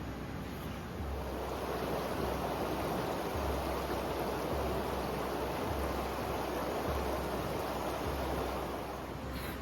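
River water running steadily past the riverside site, a continuous rushing murmur that swells a little after the first second and eases near the end.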